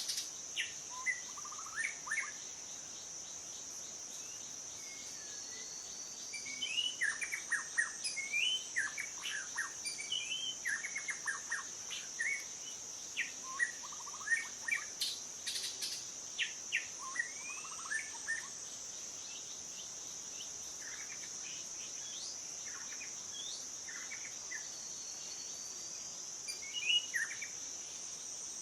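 Birds chirping and calling in short, varied whistled notes, busy through the middle stretch and sparse near the start and end, over a continuous high-pitched drone.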